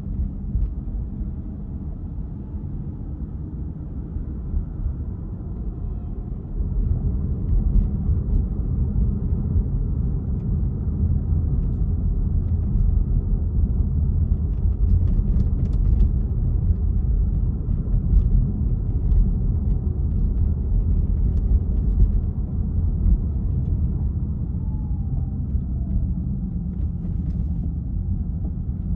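Low road and engine rumble of a moving car, heard from inside the cabin, getting louder about six seconds in and staying steady after that.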